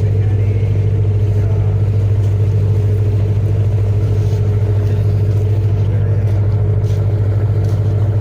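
A ferry's engine running with a steady, loud low drone and hum that does not change.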